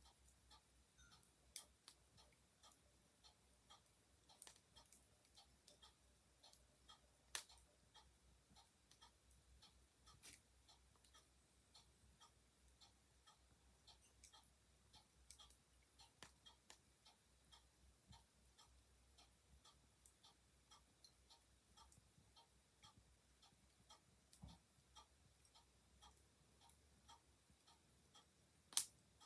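Faint, steady ticking of a clock, with a few louder, irregular sharp pops from a crackling wood fire, the loudest near the end.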